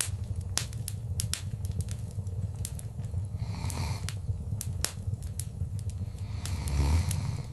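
Wood fire crackling in a fireplace: frequent sharp pops and snaps over a low, steady rumble of flame. Twice, about four seconds in and near the end, a soft rush swells and fades.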